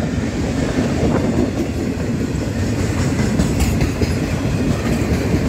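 Freight train of wagons loaded with steel coils rolling past, a loud, steady rumble of steel wheels on the rails.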